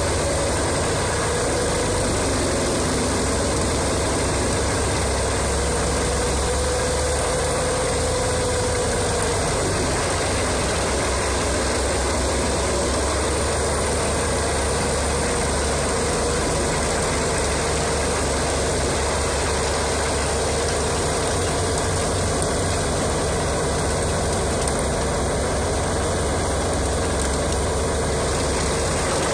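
Engine of a large wood chipper running at a steady speed, a continuous low rumble with no clear breaks or chipping impacts.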